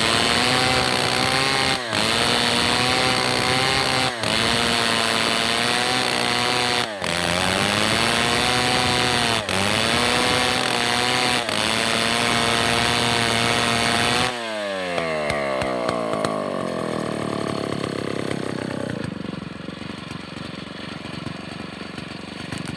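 Chainsaw engine running at high revs while cutting, its pitch sagging under load and recovering again and again, with a few abrupt breaks. About two-thirds through the revs fall away and the saw winds down to a quieter, low idle.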